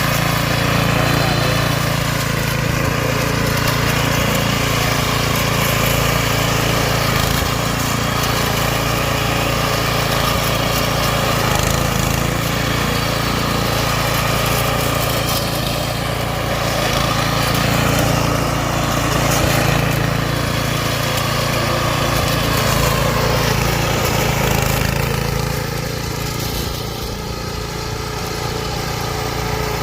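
Homemade remote-controlled lawn mower running steadily, with its motor's hum dipping slightly near the end.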